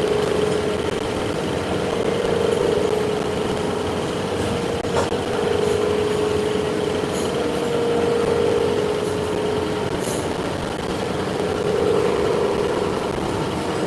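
A machine tool running steadily with a constant hum, and a single click about five seconds in.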